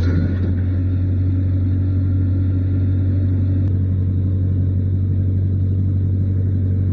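An engine running at a steady speed, a deep, even drone that holds without change.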